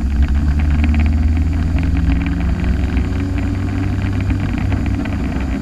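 Turbocharged car's engine running at low, fairly steady revs, a deep drone heard from inside the car, easing off slightly about a second and a half in.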